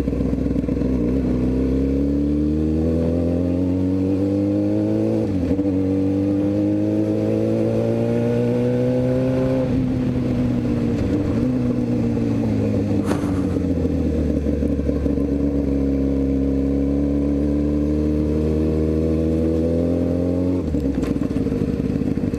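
Motorcycle engine pulling away and accelerating, its pitch climbing, with a gear change about five seconds in. It eases off around ten seconds, runs steadily at cruising speed, then changes again near the end.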